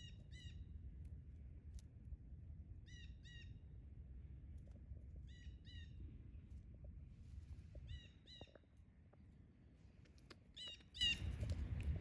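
A bird calling a pair of short, clear notes, repeated about every two and a half seconds, over a low steady rumble of wind on the microphone. Near the end a louder burst of noise comes in.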